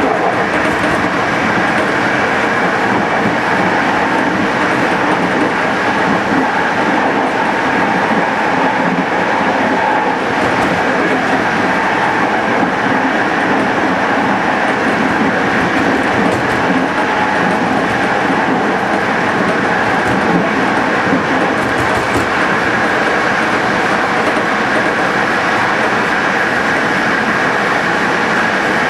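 TLK passenger train running along the track: a steady, unbroken rolling noise of wheels on rail.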